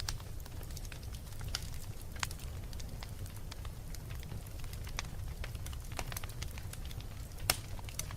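Wood fire in a fireplace crackling, with irregular snaps and pops and one sharper pop near the end, over a low steady rumble.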